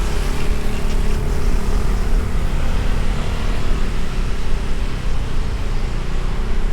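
Motorbike on the move: a steady low rumble of engine, road and wind noise with no sudden events.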